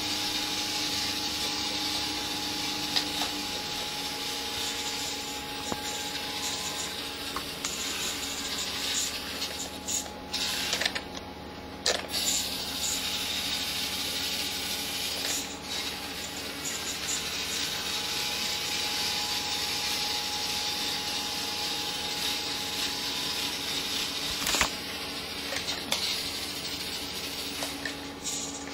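Small electric drive motor and gearbox of a remote-controlled Siku model tractor running, a steady whir with a hiss, broken by a few sharp clicks.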